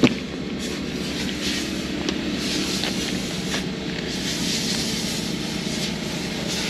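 Portable generator engine running steadily, with swells of hiss from wet sandpaper rubbed back and forth over a headlight lens and a sharp click right at the start.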